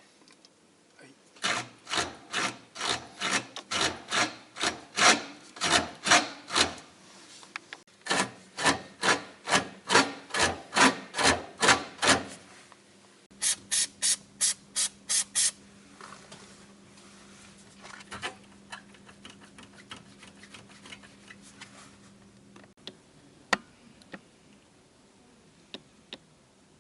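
Mercedes-Benz V280 stabilizer bar creaking over and over, about two creaks a second for some ten seconds, then a short run of quicker, sharper creaks, after which only faint ticks remain. This is the suspension noise the owner traced to the stabilizer: a split dust boot on the stabilizer link and a dry, creaking stabilizer pivot.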